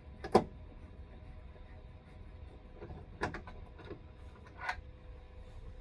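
Hand work on an RV rooftop air conditioner's cover while its screws are taken out: one loud, sharp clack about a third of a second in, then softer knocks and clicks about three, four and nearly five seconds in.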